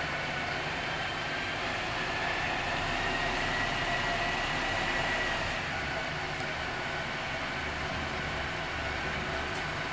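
Scania CR112 city bus on the move, its diesel engine running with a steady whine from the engine and driveline; the whine rises slightly and then eases off about halfway through.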